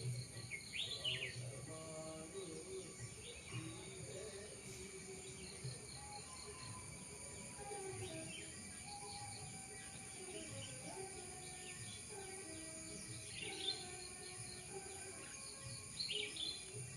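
Birds chirping and calling now and then over a steady background hiss, with the loudest chirps near the start and near the end.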